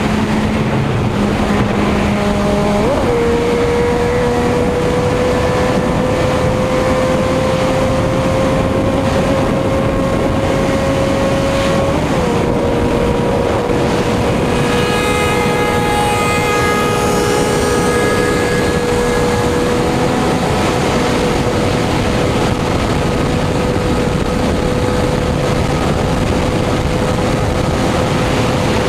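Sport motorcycle engine running at high speed under heavy wind rush. Its note jumps up about three seconds in, climbs slowly, dips slightly about twelve seconds in, and then holds steady.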